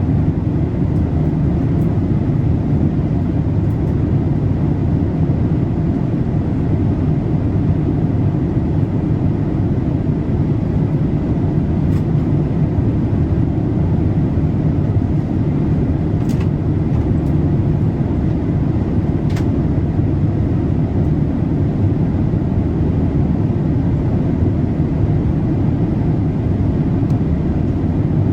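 Steady cabin noise of a Boeing 787-8 in flight, heard from a window seat: an even, low rush of engine and airflow noise. A few faint clicks sound in the middle.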